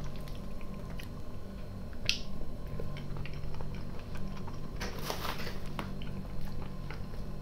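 Close-up chewing and mouth sounds of a person eating salad, with a metal fork clicking and scraping in a plastic container; one sharp click about two seconds in. A steady low hum runs underneath.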